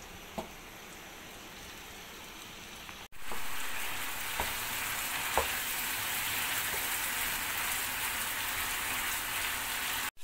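Marinated chicken strips sizzling in a shallow layer of oil and sauce in a nonstick frying pan on medium flame, stirred with a wooden spatula that clicks lightly against the pan a few times. The sizzle is faint at first and jumps louder about three seconds in.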